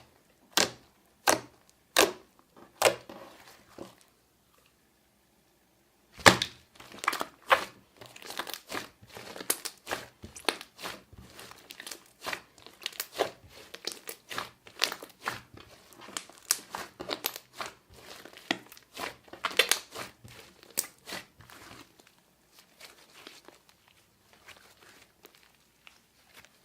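Glossy slime being squeezed and pressed, giving sharp wet clicks and pops at irregular intervals. The sound drops out for about two seconds a few seconds in. It then returns as dense, fast clicking and grows fainter near the end.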